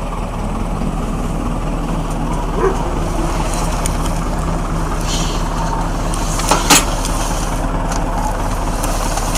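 An engine running steadily at an even speed, with a sharp knock about three seconds in and two more about two-thirds of the way through.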